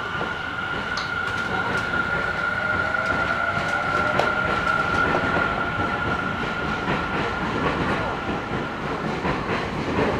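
Electric commuter train running, heard from inside a car: a steady high whine over rumbling wheel-and-rail noise with scattered clicks, growing louder over the first few seconds and then holding.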